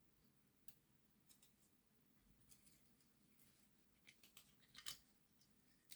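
Near silence broken by a few faint, short clicks and taps of small parts being handled, coming more often near the end.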